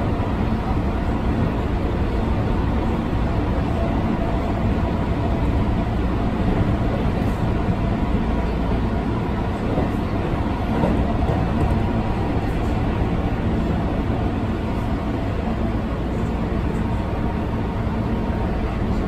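A Keihan Railway limited express train running at speed, heard from inside the passenger car: a steady low rumble of the wheels on the rails, with a faint steady whine above it.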